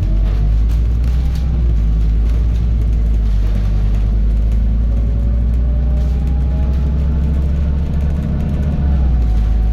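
Scania N280UD double-decker bus heard from on board: its five-cylinder diesel engine running with a deep, steady rumble, and a whine rising in pitch about five seconds in as the bus picks up speed.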